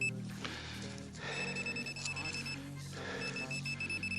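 A metal detector sounding a steady high-pitched target tone, starting about a second and a half in, breaking off briefly near the middle and coming back. Quiet background music plays underneath.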